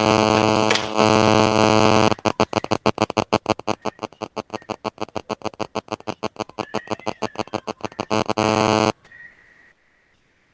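Harsh, distorted electronic buzz in the call audio: steady for about two seconds, then stuttering on and off rapidly, about nine times a second, then steady again briefly before cutting off suddenly about nine seconds in.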